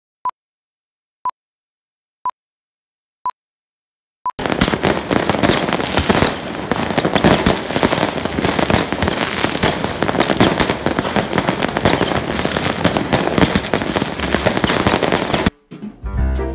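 Five short beeps of one pitch, a second apart, over silence, like a countdown; then a dense barrage of fireworks, bangs and crackling packed close together for about eleven seconds. The fireworks cut off suddenly and music comes in near the end.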